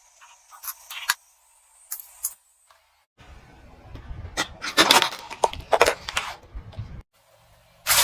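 Objects being crushed under a car tyre: a few sharp cracks, then about four seconds of dense crunching and snapping over a low rumble that cuts off suddenly, and another burst of cracks near the end.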